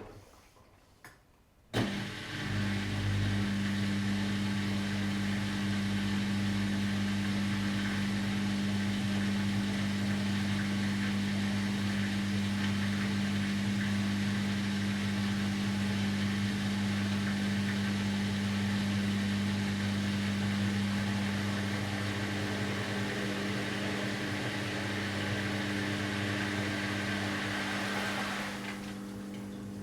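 Washing machine: after a brief pause, its motor starts with a click about two seconds in and runs steadily with a low hum and a whooshing noise. Near the end the whooshing drops away, leaving a quieter hum.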